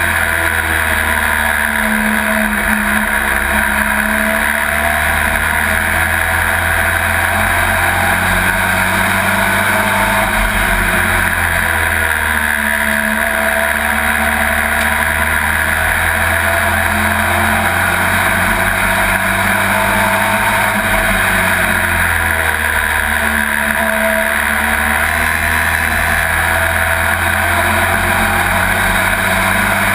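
Pro Truck race truck's engine heard from inside the cab at racing speed, its pitch repeatedly rising under throttle and dropping back as the driver lifts, over a steady noise of wind and road.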